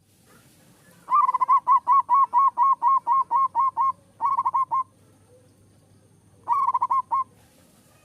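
Zebra dove (perkutut) song: a fast run of about a dozen short repeated coos, a brief run of about four straight after, and another short run of about five near the end.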